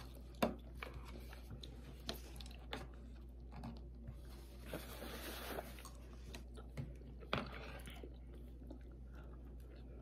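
Close-miked chewing and mouth sounds of people eating fried pork chops and dinner rolls, with scattered small clicks and two louder taps, about half a second in and a little after seven seconds. A soft hiss rises for about two seconds in the middle, over a faint steady low hum.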